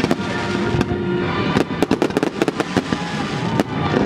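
Fireworks going off in quick succession, many sharp bangs and crackles, heaviest in the middle, over music with held notes.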